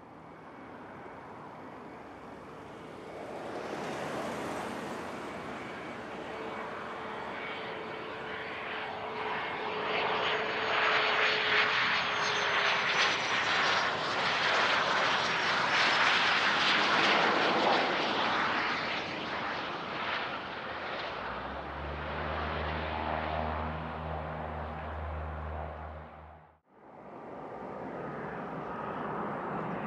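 Airplane passing by on the runway: engine noise builds over several seconds to its loudest in the middle, with a thin whine that slowly falls in pitch as it goes past, then fades. It breaks off sharply near the end and engine noise starts up again.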